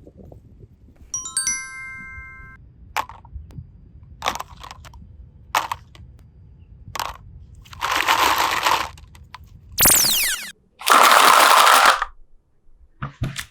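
A string of edited cartoon sound effects: a chime of a few held tones, several short pops, two loud hissing bursts, and a quick falling whistle between them.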